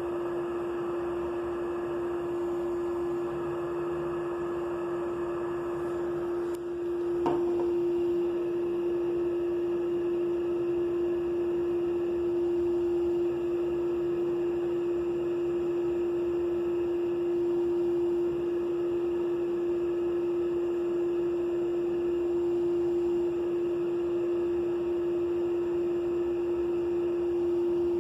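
A steady single-pitched tone over a faint hiss, with one brief click about seven seconds in.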